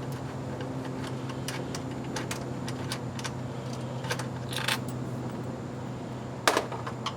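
Light, irregular metallic clicks and clinks of a hand tool working the transmission filter's Torx bolts loose, with one louder clank about six and a half seconds in. A steady low hum runs underneath.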